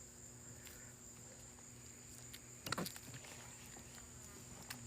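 Faint, steady high-pitched insect chorus, with a brief knock about two and a half seconds in and a fainter click near the end.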